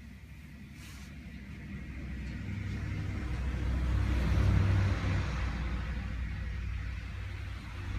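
A low rumble that builds steadily, peaks about four and a half seconds in, then eases off.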